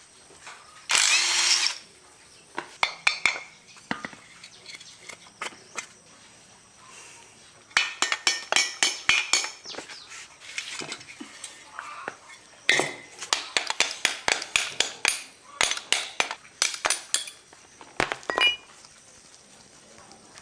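Hand tools clinking and tapping on metal parts in quick irregular runs, with a short hissing burst about a second in.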